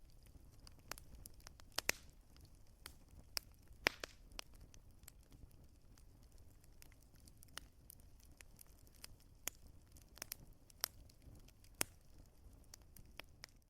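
Wood fire crackling: irregular sharp pops and snaps over a faint low rumble, with a couple of louder pops about two and four seconds in.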